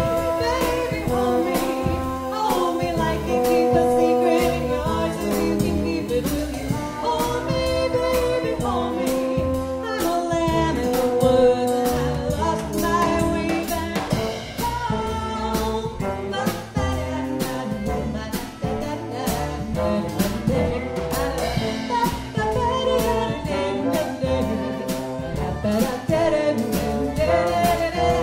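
A live band playing a song, with sustained pitched instrument or vocal lines over a steady percussion beat.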